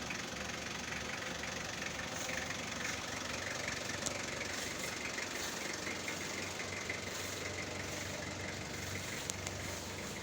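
2007 Toyota Hilux diesel engine idling steadily.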